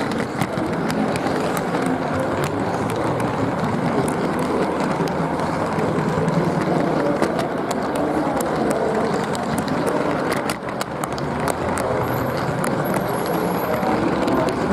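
G-scale garden model train rolling along its track, heard from a camera riding on board: a steady rumbling clatter of wheels on rail with frequent sharp clicks.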